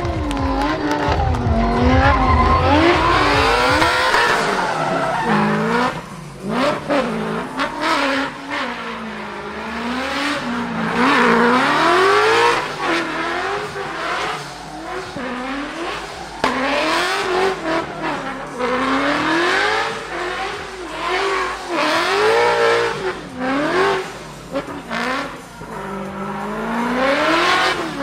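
Drift car engine revving up and down over and over as the throttle is worked through a drift, with tyres squealing. The engine pitch rises and falls roughly every second or two.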